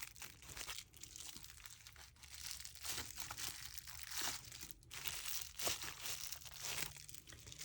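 Bubble wrap and paper crinkling and rustling as they are handled, in irregular crackles with no steady rhythm.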